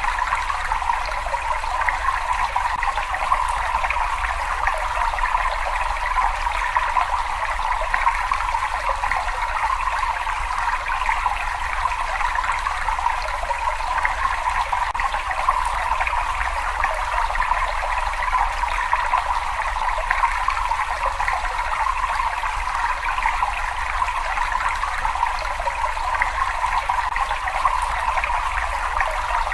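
Steady running and trickling water in a cave, an even splashing rush with no breaks.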